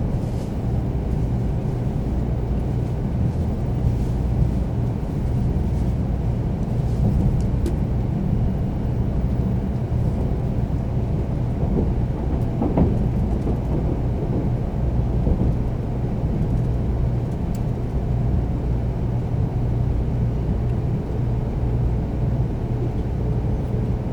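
Running noise inside the passenger car of a 300-series Shinkansen train: a steady low rumble, with a few faint knocks about halfway through.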